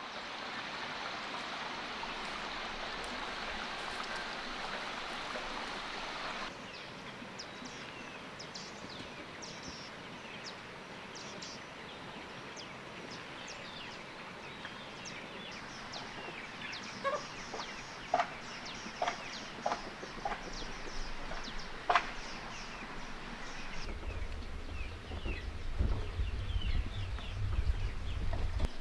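Chickens clucking, with short calls and sharp clicks coming more often in the second half. A steady hiss covers the first six seconds and cuts off suddenly, and a low rumble comes in near the end.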